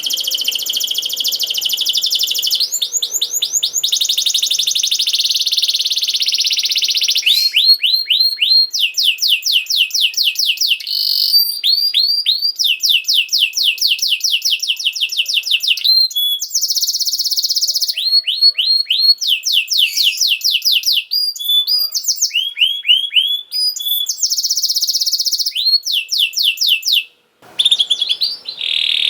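Domestic canary singing a long, continuous song. It opens with buzzy rolling trills, then moves through runs of rapidly repeated sweeping notes, changing phrase every few seconds, with one brief pause near the end.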